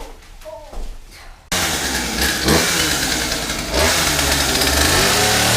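Chainsaw cutting a Christmas tree's trunk to size, starting suddenly about a second and a half in and running loudly, its pitch dipping and rising under load.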